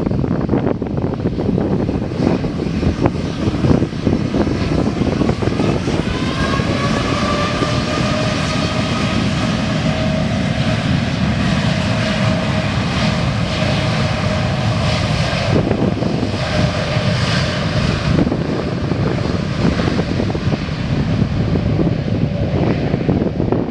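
Airliner engines running: a loud, steady rumble with an engine whine that comes in about six seconds in, rises slightly and holds, then drops out about two-thirds of the way through.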